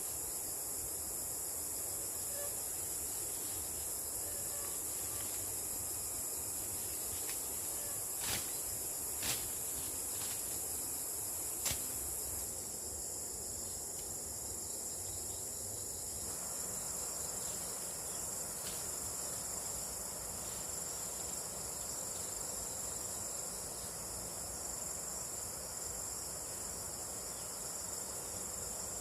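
Steady high-pitched chorus of insects singing, with a few sharp clicks about a third of the way in.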